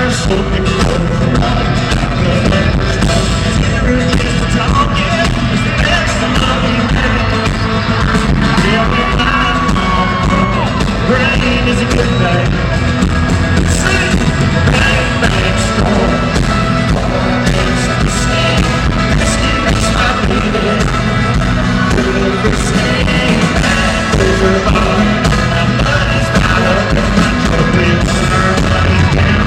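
Loud live country-rock band playing, with some singing.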